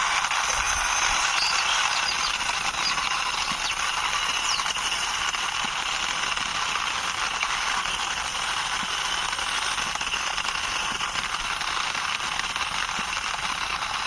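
Small plastic toy police motorbike pushed by hand along a ledge, its wheels rolling with a steady, fine rattling and clicking.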